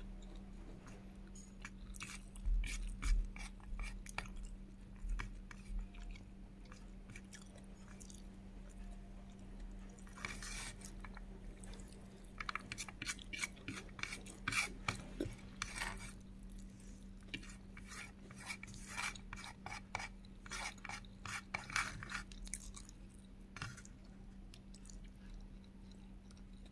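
Close-up chewing and wet mouth clicks of someone eating rice with scrambled egg and bacon, in irregular clusters, over a faint steady electrical hum.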